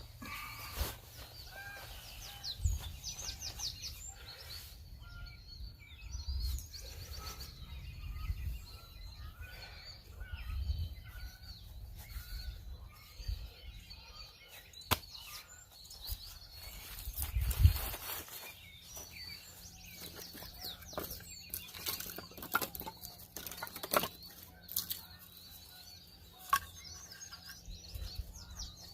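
Small wild birds chirping and calling over and over, several short calls overlapping, with occasional sharp clicks and knocks and a low rumble underneath.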